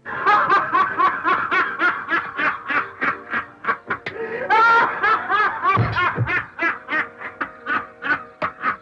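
A person laughing hard: a long run of rapid, high-pitched laughs about four a second, with a drawn-out rising squeal about halfway through, tailing off near the end.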